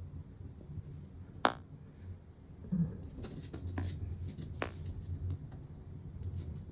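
Two sharp clicks, the first the louder, and a few small rustles and taps from handling small parts and tools at a workbench, over a low steady hum.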